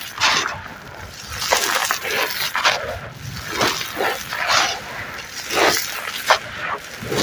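Gritty sand-cement pieces crumbled by hand, crunching in a string of irregular gritty bursts about one or two a second.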